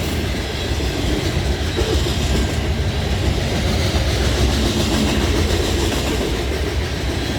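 Freight cars of a manifest train rolling past at speed: a loud, steady rumble and clatter of steel wheels on the rails.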